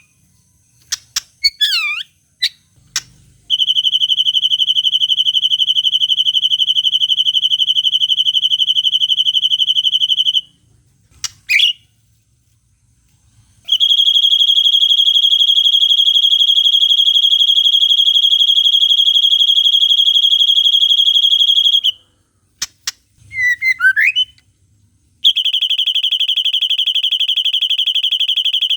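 Songbird song for murai batu (white-rumped shama) training: long, fast, even trills held on one high pitch for several seconds each, three of them, in the style of the long 'cililin' trill. Short swooping whistled chirps come in the gaps between the trills.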